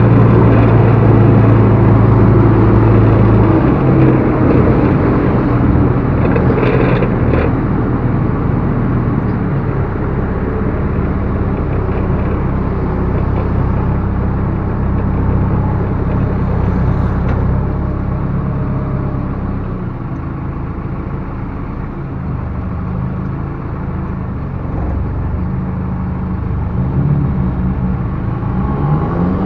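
Backhoe loader's diesel engine running under working load, its engine note shifting a few times and rising near the end. A few faint knocks come through about 7 and 17 seconds in.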